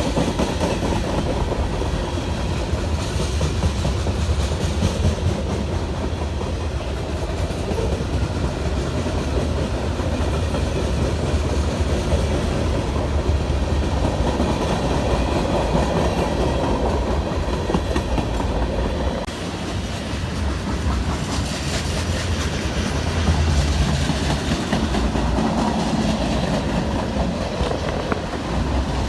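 A train passing close by, its wheels clacking over the rail joints with a steady rumble that rises and falls slightly.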